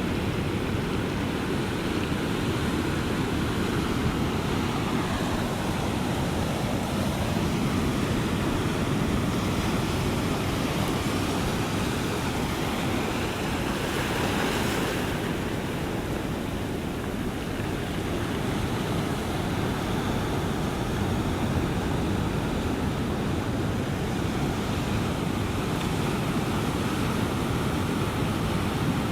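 Ocean surf: a steady low rush of waves, with one wave's hiss swelling about halfway through.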